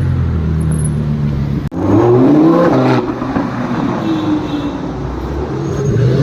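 Sports car engine running low and steady, then revving: its pitch climbs and falls about two seconds in and starts rising again near the end. The sound breaks off sharply just before the first rev.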